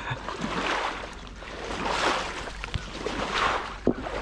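Wings of a large flock of teal rushing low overhead, a whooshing that swells and fades in about three waves.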